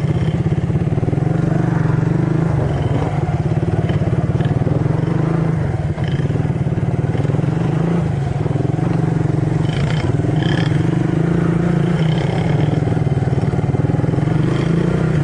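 Yamaha TTR50 mini dirt bike's small single-cylinder four-stroke engine running at steady, fairly low revs, with a brief dip about six seconds in.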